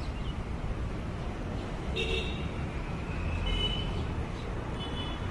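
Low, steady rumble of an express passenger train moving away down the line. A short horn toot sounds about two seconds in, followed by a few brief high-pitched tones.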